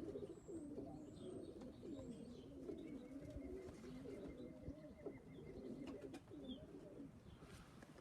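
Several pigeons cooing softly, their low warbling calls overlapping.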